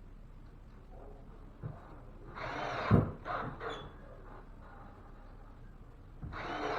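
Handling noises: a scrape ending in a sharp knock about three seconds in, followed by a couple of lighter knocks, and another scrape near the end.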